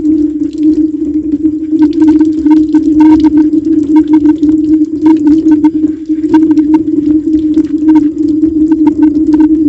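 Metal cutlery being washed by hand in a sink: quick clinks and knocks of utensils against each other and the sink, many times over a steady rush of running tap water.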